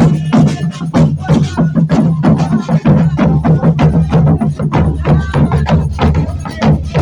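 Congada percussion group playing loudly: dense, rapid drum and percussion strikes over a steady low drum tone.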